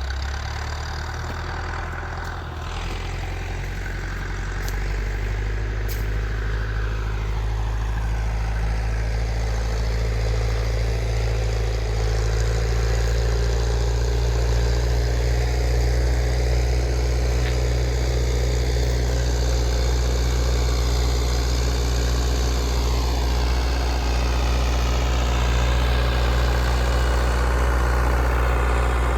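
Tractor engine running steadily with a low drone, getting a little louder over the first dozen seconds.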